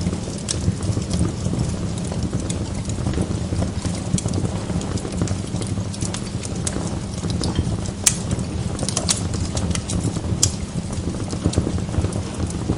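Wood log fire burning in a fireplace, crackling: a steady low rush of flame under scattered sharp pops, the strongest about eight and ten and a half seconds in.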